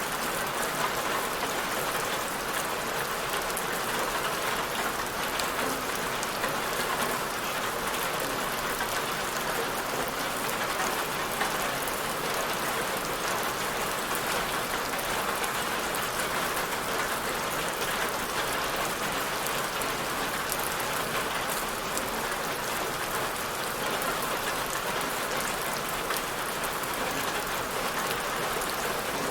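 Steady rain falling on a surface, a constant hiss of many small drop taps with no change in intensity.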